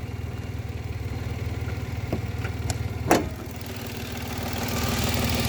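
Mitsubishi Mirage's 1.0-litre three-cylinder engine idling steadily, with a sharp click about three seconds in as the hood is released. Near the end the engine sound grows louder and brighter as the hood opens.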